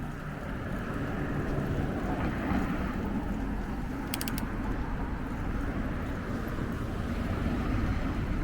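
Steady rumbling noise of a bicycle ride: wind on the microphone and tyres rolling along the path. A quick run of faint ticks comes about four seconds in.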